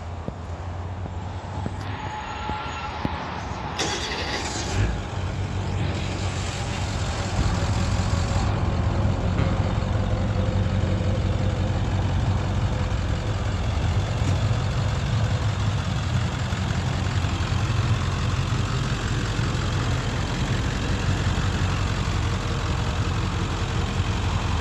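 Ford F-250's 7.3 L Powerstroke V8 turbo-diesel running steadily. It gets louder about eight seconds in.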